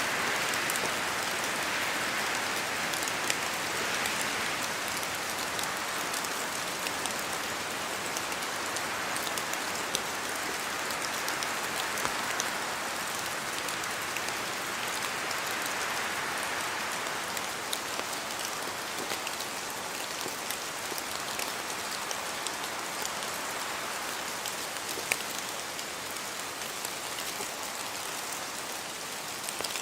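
Steady rain falling through forest trees, with scattered drops pattering and a hiss that swells and eases slowly in waves as gusts of wind move the branches.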